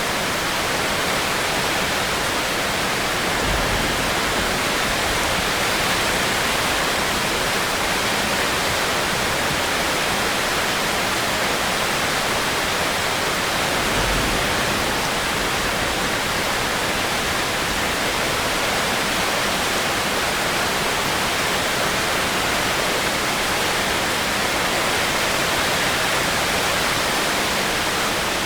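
Steady heavy rain, an even unbroken hiss. Two brief low rumbles come through underneath, about 4 and 14 seconds in.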